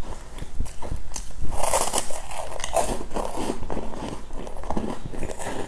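Close-miked eating: a bite and then chewing of a small powder-coated pastry, with moist crackling and clicking mouth sounds, busiest between about one and a half and three and a half seconds in.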